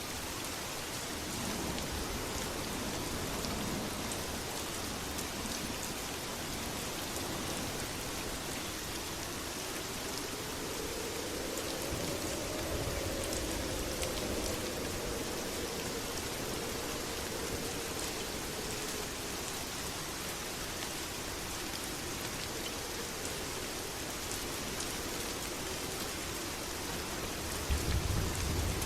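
Steady heavy rain, an even hiss with fine drop ticks, and a brief low rumble near the end.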